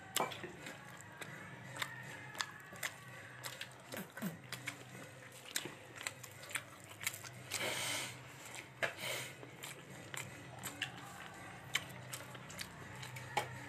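A person chewing food close to the microphone, with frequent short wet clicks and smacks of the mouth and a couple of brief noisy bursts about eight and nine seconds in.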